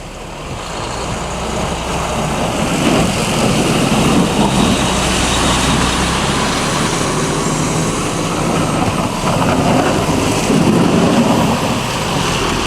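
Highway traffic with heavy trucks' engines running, a steady rushing noise with a low engine drone underneath that swells over the first few seconds.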